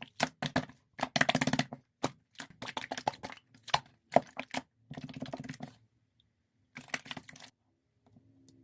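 Bursts of crisp crackling and clicking, each a cluster of rapid clicks, with short pauses between them. The bursts stop about three-quarters of the way through.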